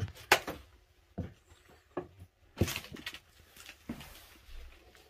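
Footsteps on a wooden attic floor strewn with paper and cardboard: irregular thuds with crackling, rustling debris underfoot, about six steps, the loudest right at the start.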